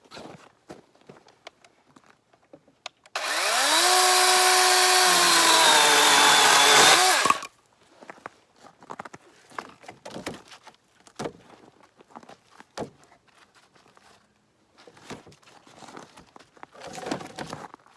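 DeWalt XR 20V cordless chainsaw revving up about three seconds in and cutting through a small dead branch for about four seconds: a steady whine that dips in pitch under load, then stops abruptly. Faint knocks and rustles of wood being handled follow.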